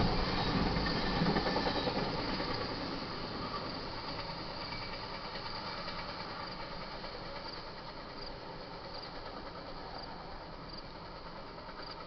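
Intermodal freight train's last cars rolling past, the wheel and rail noise loudest in the first two seconds and then fading to a steady dwindling rush as the train moves away.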